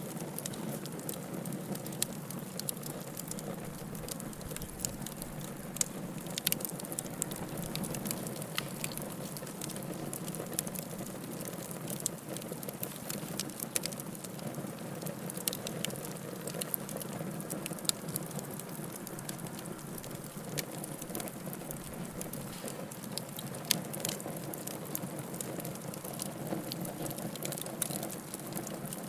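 Wood fire crackling: frequent sharp, irregular snaps and pops over a steady low rush of burning.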